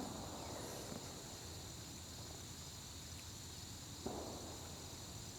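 A steady, faint high-pitched chorus of crickets, with a brief soft rustle about four seconds in.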